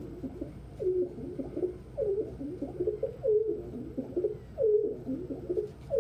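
Domestic pigeon cooing: a low, throaty coo repeated about every second and a quarter, five times over.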